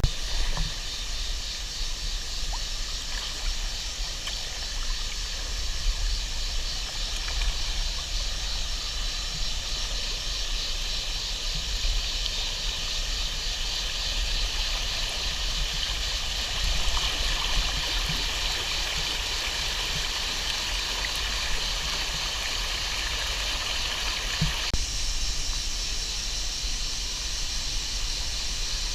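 Steady rush of water falling at a waterfall into its pool, with a low rumble underneath. About three-quarters of the way through, the sound changes abruptly.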